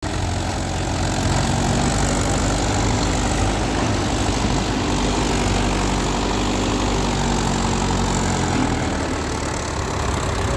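Mahindra Yuvo tractor's diesel engine running steadily, its note changing about eight and a half seconds in.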